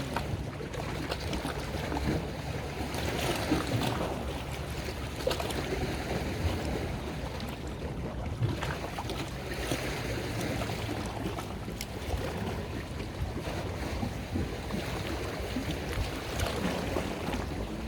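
Boat engine running steadily, a low hum under water sloshing and splashing, with wind buffeting the microphone.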